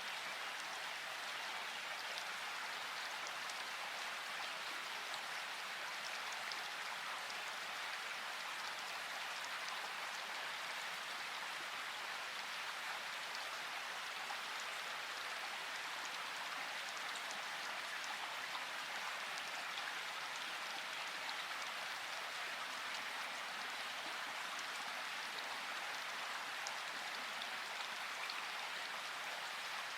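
Steady rain falling: an even hiss of rainfall scattered with small drop ticks, with no thunder.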